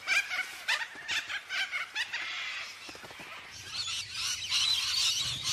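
A flock of parrots calling: harsh screeches several times a second, turning to denser, higher-pitched chatter about halfway through. A steady low hum comes in near the end.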